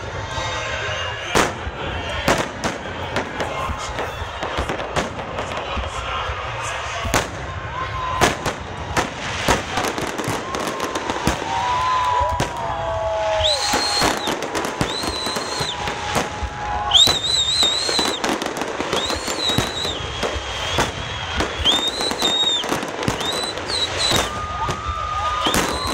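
Fireworks salute going off with a dense run of bangs and crackling. From about halfway on, high wavering whistles sound over the bangs.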